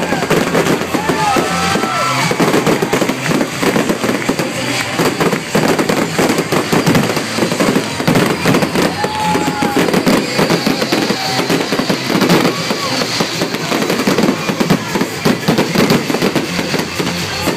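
Aerial fireworks display going off in rapid succession: a dense, continuous barrage of bangs and crackling.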